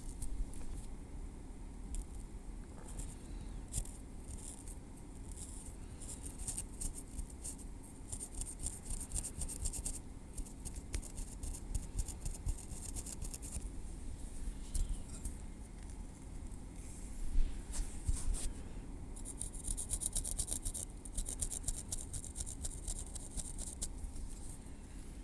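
Metal tweezers working through hair at the scalp: fine, rapid ticking and light scratching, coming in two thicker runs, one in the middle and one near the end.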